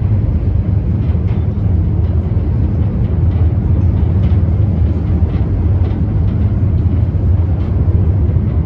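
Diesel-hauled heritage train travelling along the line, heard from on board: a steady low rumble with faint light clicks scattered through it.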